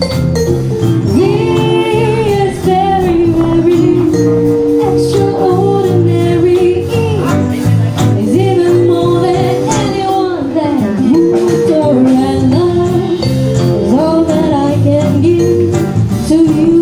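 Live band with a female lead singer: a sung melody with vibrato over keys, bass guitar, drum kit and guitar, with sustained held horn notes.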